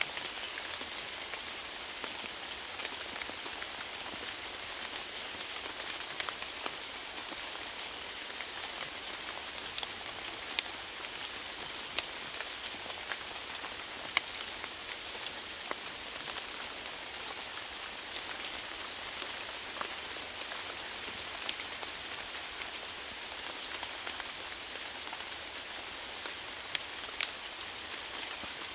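Steady rainfall: an even hiss of rain on a surface with scattered sharper drop ticks throughout.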